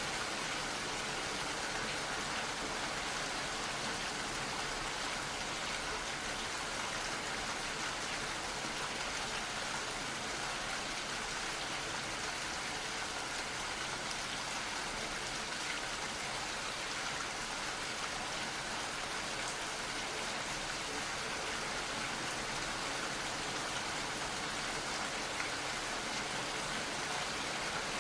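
Steady gentle rain falling, an even patter without pauses.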